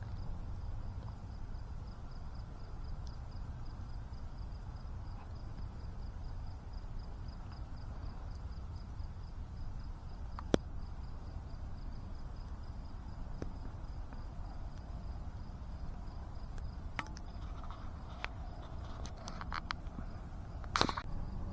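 Quiet outdoor ambience: a faint insect chirring in a fast, steady pulse over a low rumble. A few sharp clicks and knocks come about halfway and in the last few seconds, the loudest near the end.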